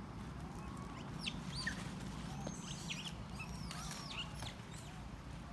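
Birds chirping: a scatter of short, high, arching whistled calls over a steady low background hum.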